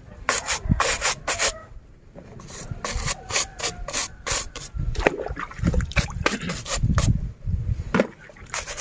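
A scrub brush rubbing over a plastic toy in quick back-and-forth strokes, a scratchy rasping sound that is briskest and loudest in the first couple of seconds, then slower and more irregular.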